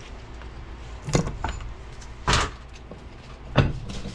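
A handful of sharp metal knocks and clanks, spaced unevenly, as the front output's rear bearing retainer on an NP205 transfer case is tapped and pried loose from the housing.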